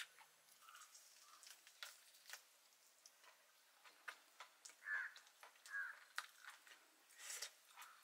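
Faint eating sounds: soft clicks and smacks of chewing, with two short squeaky sounds about five and six seconds in.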